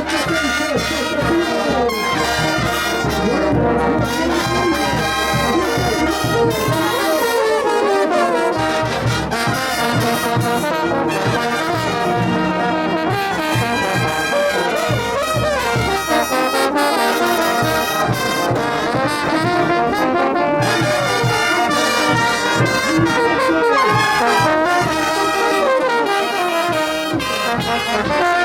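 Bolivian brass band playing ch'uta dance music: trumpets and trombones carry the melody over a steady drum beat.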